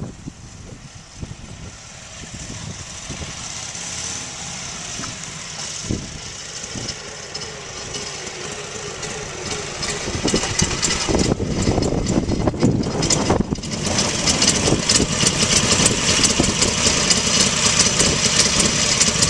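1941 Harley-Davidson EL Knucklehead's overhead-valve V-twin running on a cold start: slow, uneven firing at first, then it picks up about ten seconds in and runs louder and more evenly for the rest.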